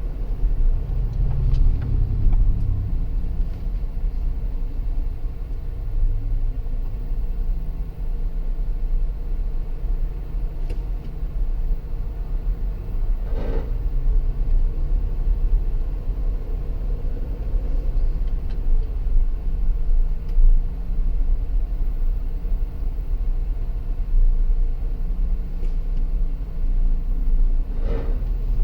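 Dodge Durango with a Hemi V8 on the move, a steady low rumble with a brief grinding noise about 13 seconds in and again near the end. The grinding comes on when slowing to about 20 mph or starting to move from a stop.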